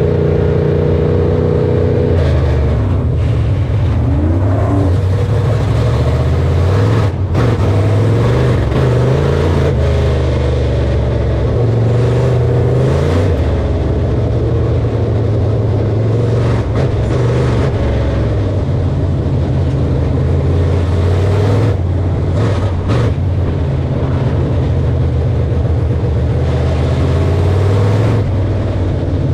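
Corn harvesting machinery running steadily, its engine droning with a pitch that wavers and shifts, with a few short knocks.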